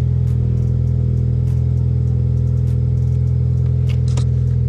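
Turbocharged car engine idling steadily while it warms up, heard from the driver's seat.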